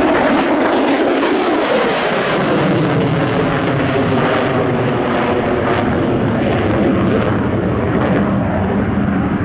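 USAF F-35A Lightning II's Pratt & Whitney F135 turbofan at full thrust in a max-performance climb to the vertical: a loud jet roar with sweeping, phasing bands. The roar loses its hiss after about four and a half seconds as the jet climbs away.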